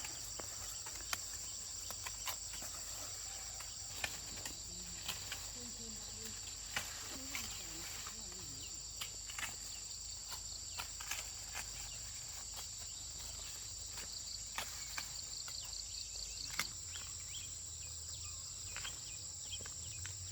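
Steady high trilling of an insect chorus, with scattered sharp snaps and crackles as ears of maize are broken off dry stalks. Faint voices are heard briefly a few seconds in.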